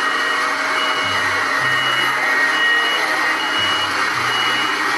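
A construction vehicle's reversing alarm beeping steadily, six or so high beeps a little under a second apart, over a steady rushing engine noise, in keeping with a road compactor backing up.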